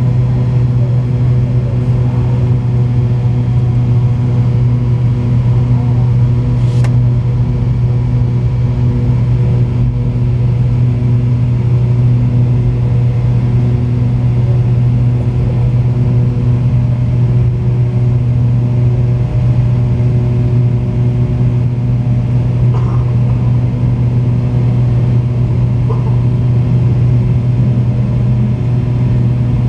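The McDonnell Douglas MD-88's twin rear-mounted Pratt & Whitney JT8D turbofans running at steady power: a loud, even low drone with a few constant tones above it.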